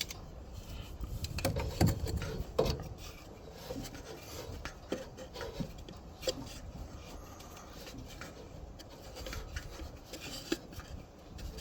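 Light clicks, taps and rubbing from hands working on an air-cooled diesel engine, turning it over by hand to bring the next nuts round, with a few sharper knocks about two and two and a half seconds in.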